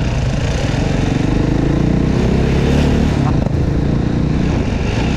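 Supermoto motorcycle engine running, its pitch wavering up and down as the throttle is worked.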